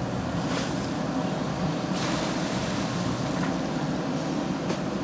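JCB 3DX backhoe loader's diesel engine running steadily, with a few short knocks over it.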